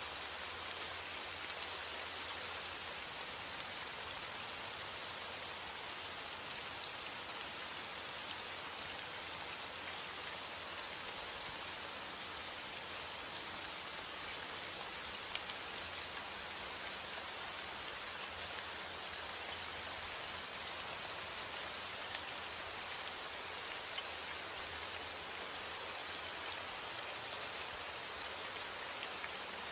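Steady rain falling, a dense even hiss with many small patters of drops striking surfaces.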